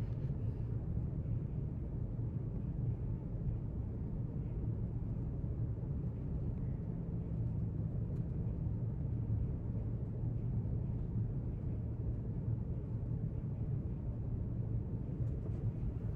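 Steady low rumble of library room tone, unchanging throughout, with a few faint small ticks.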